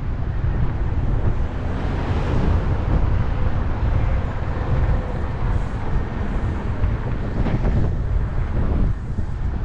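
Wind buffeting the microphone over a steady low rumble of moving-vehicle noise, cutting off abruptly at the very end.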